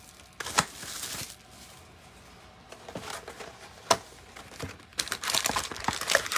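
Plastic wrapping crinkling and tearing as a sealed box of trading cards is opened. There are a few sharp clicks, a quieter stretch in the middle, and a denser run of crinkling near the end.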